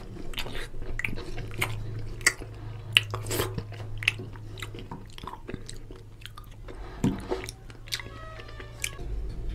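Close-up chewing of rice and oily mutton curry eaten by hand, with wet mouth smacks and many short irregular clicks.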